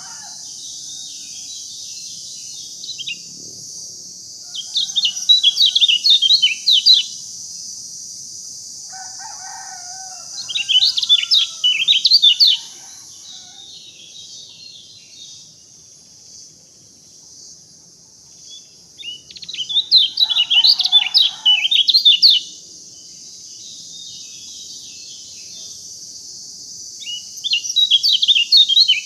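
A songbird singing in four bursts of rapid high notes, each two to three seconds long, over a steady high-pitched hiss. Lower calls sound along with some of the bursts.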